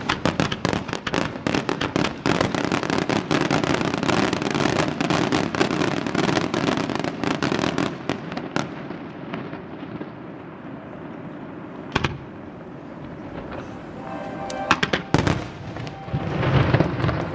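Aerial fireworks going off: a dense barrage of crackling bursts and bangs for about eight seconds that then dies away, single bangs about twelve and fifteen seconds in, and a fresh run of bursts near the end.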